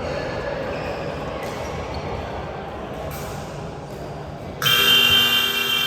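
Basketball game play in a gym, with a ball bouncing on the court. About four and a half seconds in, a loud electric game buzzer starts and holds.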